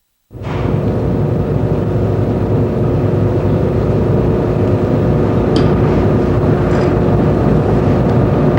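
A loud, steady rumbling drone with a constant hum, cutting in abruptly just after the start and holding steady, like running machinery.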